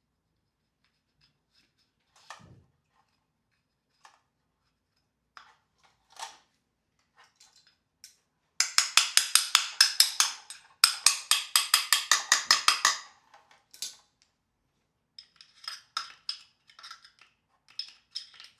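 Scattered taps and clicks, then a loud, fast run of sharp clicks lasting about four seconds, broken once near the middle, and lighter clicking near the end.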